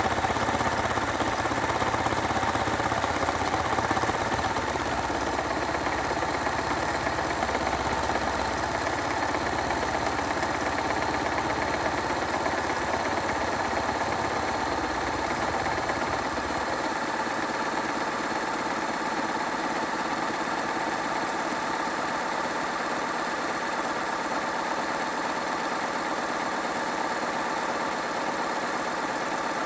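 Hoover washing machine running on a rinse and spin programme: a steady motor whir with a low hum underneath that drops away about seventeen seconds in.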